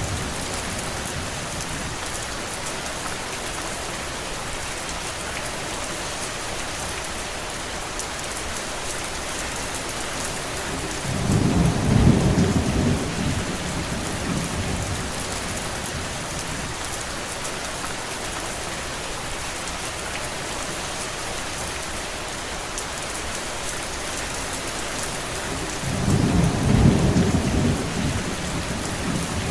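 Steady rain falling, with two low rumbles, each about three seconds long: one about eleven seconds in and one near the end.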